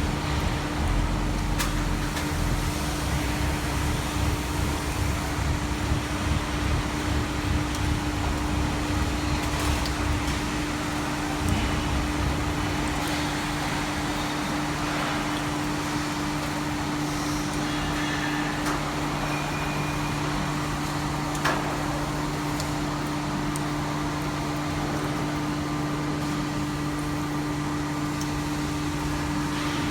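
Hydraulic power unit of a 250-ton metal baler running with a steady hum as it works the press. A low rumble fades out about ten seconds in, and there is a single short knock a little past twenty seconds.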